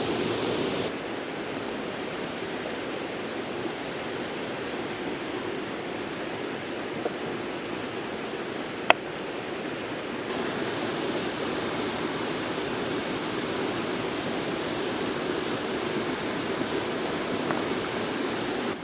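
River water rushing steadily. A single sharp click comes about nine seconds in, and a faint, thin, high steady tone joins about ten seconds in.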